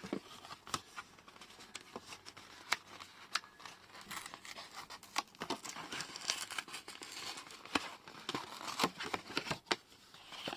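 A paper instruction leaflet being unfolded and handled, rustling and crinkling with many small crackles and snaps.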